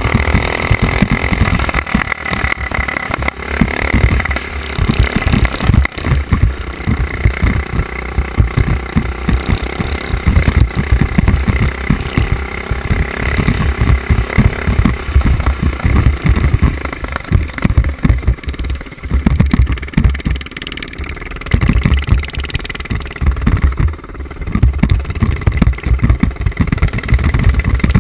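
Mini bike engine running and revving, rising and falling in pitch over rough off-road riding, with heavy wind buffeting on a helmet-mounted microphone.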